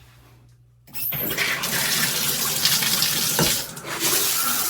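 Shower head turned on: after about a second of quiet the water comes on suddenly and sprays in a steady loud hiss.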